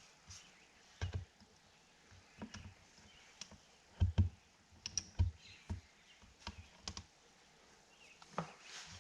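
Irregular light knocks and clicks of hand work on parts, a dozen or so at uneven spacing, a few with a dull thud, the loudest pair about four seconds in.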